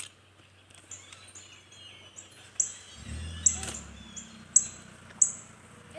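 Small songbirds giving short, sharp, high-pitched chirps, repeated about once a second.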